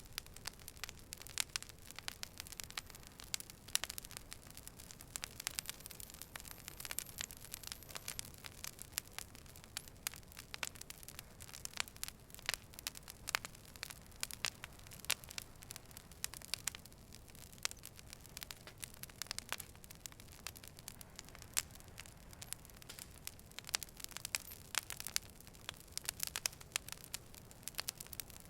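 Fire burning and crackling: many irregular sharp pops and snaps, several a second, over a low steady hiss.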